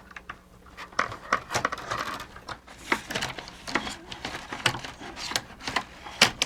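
Irregular clicks, taps and scrapes of hard plastic parts being handled and worked loose as an animated figure is taken apart, with one sharper knock near the end.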